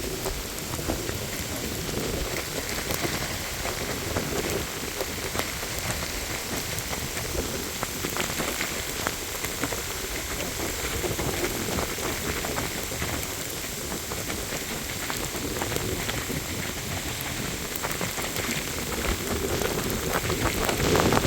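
Heavy rain falling steadily from a severe thunderstorm, with the quick patter of individual drops striking a surface; it grows a little louder near the end.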